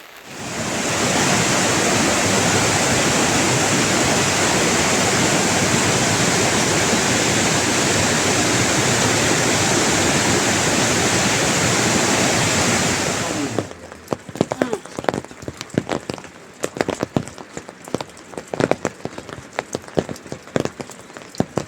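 Heavy rain as a loud, steady hiss that starts at once and cuts off suddenly after about thirteen seconds. Irregular sharp clicks and knocks follow.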